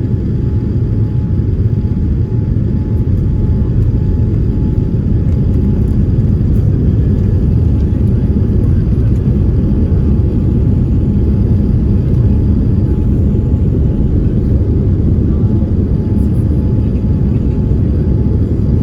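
Jet airliner cabin noise: a steady low rumble of engines and airflow, with a faint steady whine held on one pitch over it.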